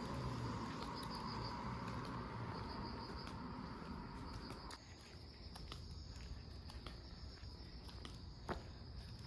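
Faint, steady high insect chirping over a low background rumble that drops away about halfway through, with scattered faint clicks.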